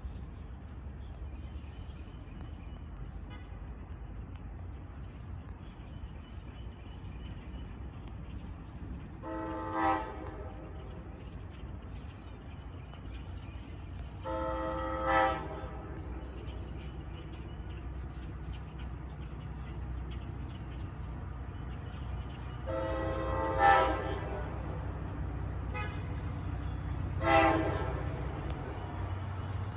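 Diesel locomotive (NJ Transit GP40PH-2B) approaching, its air horn sounding four separate blasts, each about a second long, the last a little shorter, over a low engine rumble that grows louder near the end.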